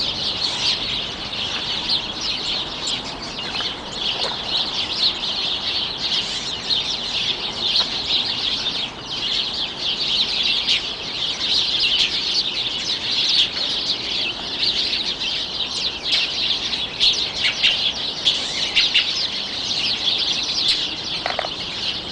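A flock of sparrows chirping and squawking all at once while feeding in a fruit tree: a loud, dense, unbroken chorus of short high chirps.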